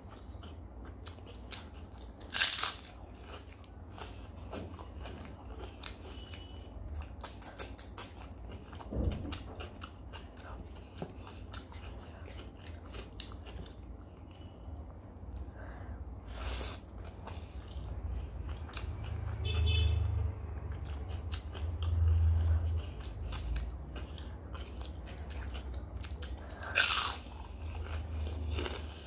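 Close-miked mouth sounds of a person eating potato curry and rice by hand: steady chewing with many small wet clicks and smacks, and three louder, sharper crunchy bites, one about two seconds in, one midway and one near the end.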